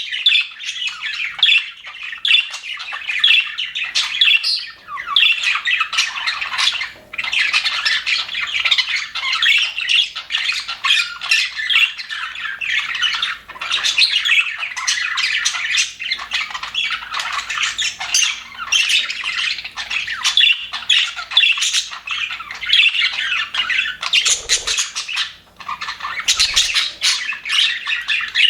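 A flock of budgerigars chattering and warbling without pause, many fast chirps and squawks overlapping.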